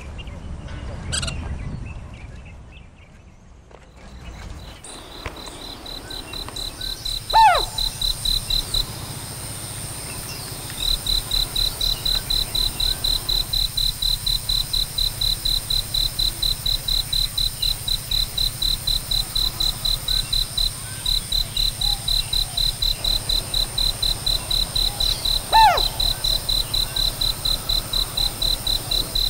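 A fast, even train of high, cricket-like pulses starts about five seconds in and keeps going, with brief breaks. Twice, far apart, a single sharp whistled call drops steeply in pitch.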